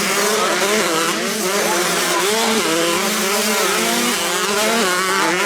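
Several 125cc two-stroke motocross bike engines running together, each revving up and dropping again and again as the riders work the throttle and shift through the track.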